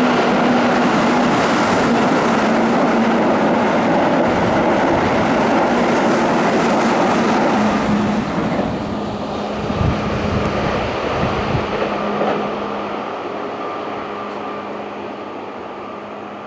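Keihan 6000 series electric train running through a station at speed: a loud, steady rush of wheels and running gear. About 8 seconds in the sound drops, a few wheel knocks follow over the rail joints, and then it fades as the train draws away.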